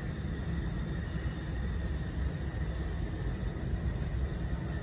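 Steady rumble inside a moving vehicle, with a faint steady high whine above it.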